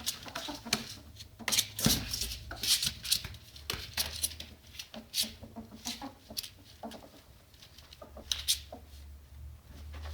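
Ferret dooking: the soft, clucking chatter a ferret makes when excited and playful, in irregular bursts mixed with quick knocks and scrabbling.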